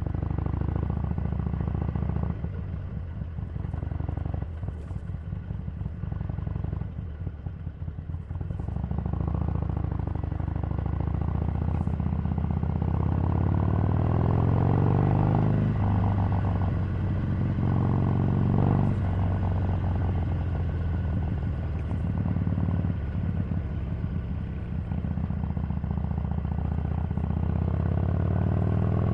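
Harley-Davidson Sportster 883's air-cooled V-twin running on the move. It is quieter and low for the first several seconds, then the revs climb and drop back several times as the bike accelerates through the gears, with another rise near the end.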